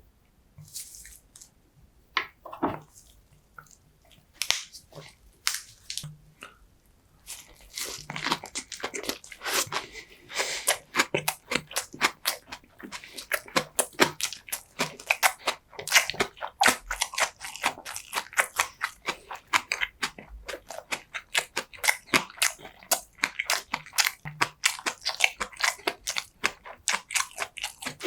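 Close-miked ASMR chewing and biting: a person eating, with scattered wet mouth clicks at first, then dense, rapid chewing from about seven seconds in.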